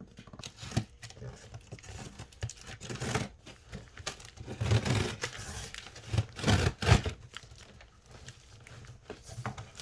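Shipping box and packaging being handled and pulled open: irregular crinkling, rustling and tearing, with louder bursts near the middle of the stretch.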